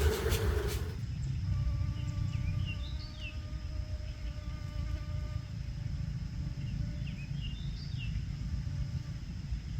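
A flying insect buzzing in a steady hum for about four seconds, with short bird chirps twice, over a low rumble. A louder rustling noise fills the first second and cuts off abruptly.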